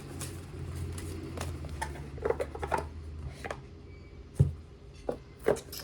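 Tarot cards and decks being handled on a table: a scattered series of light clicks and taps, with a low hum underneath that stops about three seconds in.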